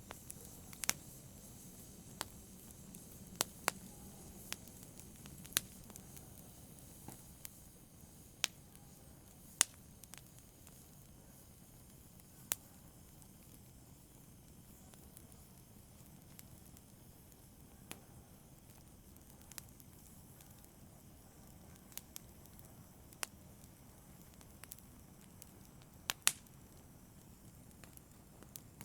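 Wood fire crackling in a fireplace: sharp, irregularly spaced pops and snaps over a soft steady hiss.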